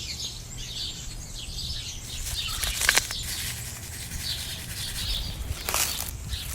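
Birds chirping over a steady low hum, with two short sharp sounds, one about three seconds in and one near six seconds.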